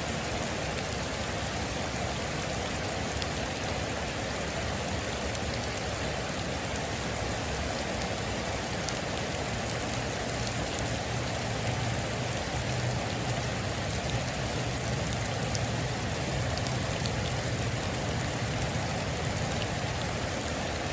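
Heavy rain drumming steadily on a metal roof, an even hiss with a few sharper drop ticks.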